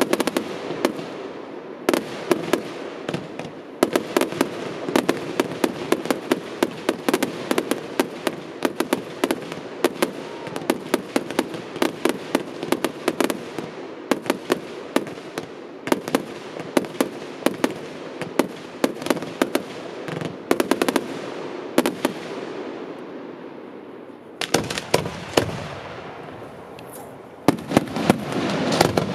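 Fireworks display: a dense, rapid crackle of sharp bangs and pops from aerial shells and crackling effects. It thins out about three quarters of the way through, then a cluster of loud bangs comes near the end.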